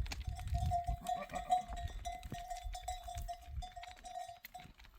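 Bells on a flock of sheep and goats ringing as the animals move, one bell holding a steady tone with small clinks around it over a low shuffling rumble.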